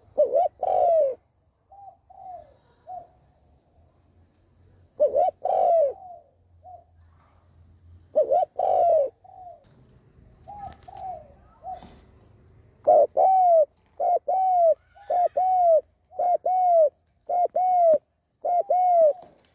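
Spotted dove cooing: groups of low, arched coos separated by pauses, then a faster run of about two coos a second in the second half.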